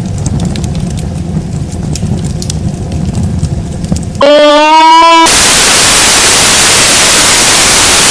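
Campfire burning with a low rumble and faint scattered crackles. About four seconds in it cuts abruptly to a loud pitched tone lasting about a second, followed by a loud, steady static hiss.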